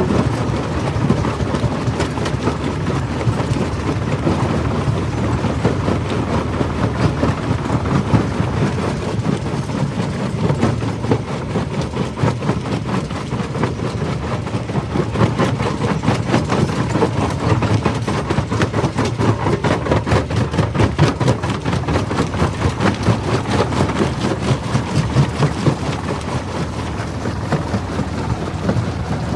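Jaw crusher running and crushing stone: a steady heavy mechanical rumble, with a fast run of sharp knocks and crunches through the middle and later stretch.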